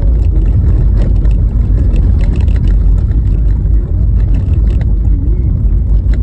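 Car driving on a rough, snow-covered road: a steady low rumble from the tyres and body, with frequent knocks and rattles as it jolts over the bumpy surface.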